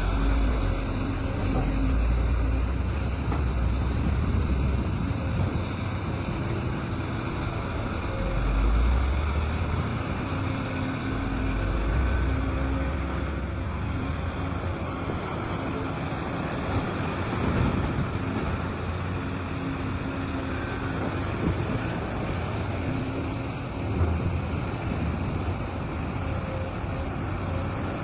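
Cat 395 mining excavator's large diesel engine running under load, its low rumble swelling and easing in surges as it works. A few short knocks come through, one about halfway and another near the end.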